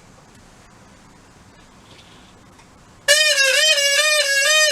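Quiet room tone, then about three seconds in a loud, reedy wind-instrument note starts suddenly. It holds one pitch and wavers in a regular pulse.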